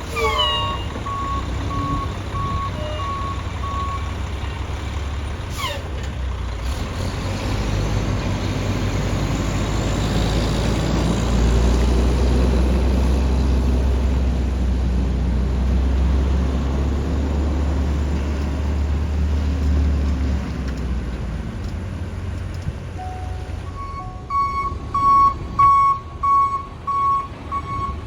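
Volvo Xpeditor rear-loader garbage truck with its reversing beeper sounding about two beeps a second at the start and again near the end. In between, the diesel engine runs louder and deeper for about ten seconds.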